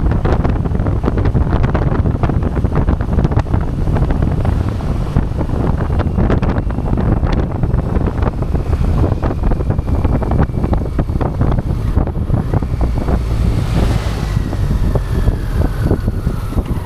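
Heavy wind buffeting an action camera's microphone on a moving motorcycle, a constant low rumble with the bike's engine running underneath. A faint falling whine comes in near the end.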